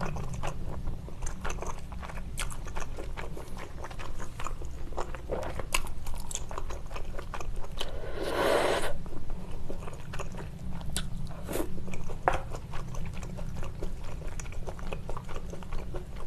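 Close-miked chewing and biting of spicy tteokbokki and glass noodles, with many small wet mouth clicks. A louder, noisy sound about a second long comes about eight seconds in.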